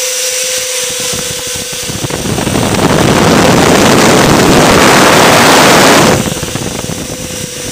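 Two electric ducted fans on a radio-control Lockheed L-1011 airliner model running with a steady whine. About two seconds in they are throttled up to roughly half power and the sound builds into a loud rush of air. About six seconds in they are cut back abruptly to the whine.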